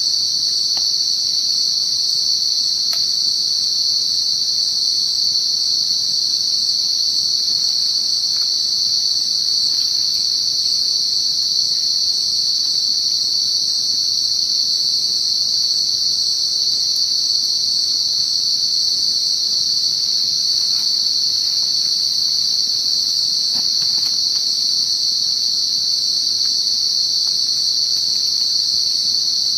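Loud, steady chorus of insects, crickets or cicadas, a continuous high-pitched trill that does not let up.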